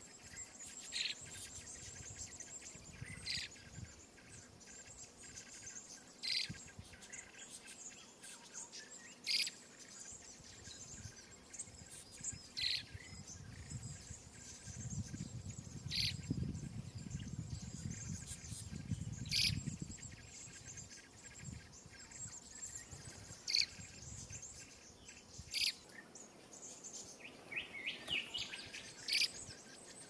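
Short high bird chirps about every two to three seconds over a steady thin high insect hum, with a quick run of chirps near the end as common blackbird nestlings beg to be fed.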